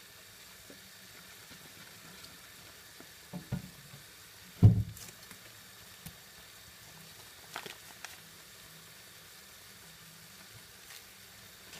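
Chicken and vegetables sizzling quietly in a frying pan. A few knocks sound over it, and one loud dull thump comes a little before halfway.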